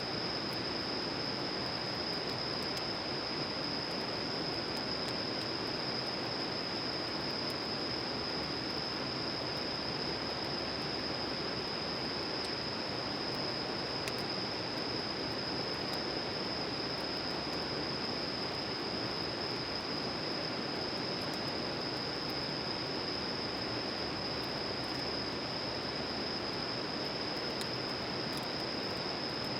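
Steady rushing noise with a continuous high-pitched insect drone over it and faint, scattered crackles from a campfire.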